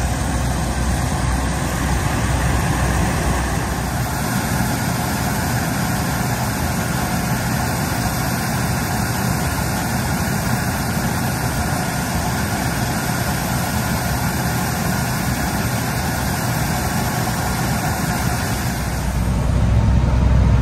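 Peterbilt grain truck's diesel engine running steadily, growing louder in the last second or two.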